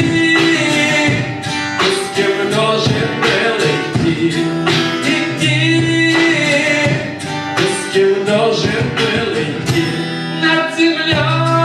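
Live acoustic guitar music: strummed and plucked chords under a melodic line, an instrumental passage between sung verses of a bard song.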